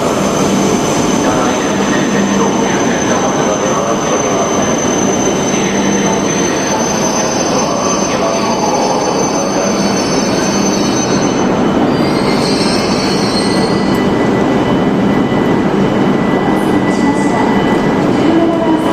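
E5 series Shinkansen train pulling into the platform: steady, loud running and braking noise with a thin high-pitched squeal. The squeal stops about twelve seconds in and gives way to other high tones.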